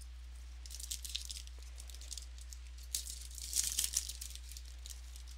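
Crinkling and rustling of a trading-card pack being handled, in two bursts of crackly clicks: a short one about a second in and a louder, longer one around three to four seconds in.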